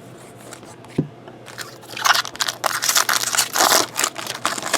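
A single click, then a trading-card pack's foil wrapper crinkling and tearing as it is opened, in quick crackly bursts from about two seconds in.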